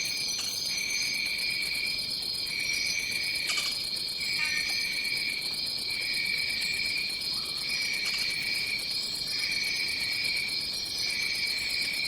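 Tropical forest insect chorus: a steady high shrill buzz over a lower trill that pulses on and off about once a second, with a few faint short high chirps.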